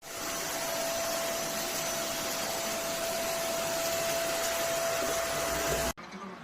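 Deerma DX700S handheld cyclone vacuum cleaner running at a steady speed: a loud rush of air with a steady whine. It stops abruptly near the end.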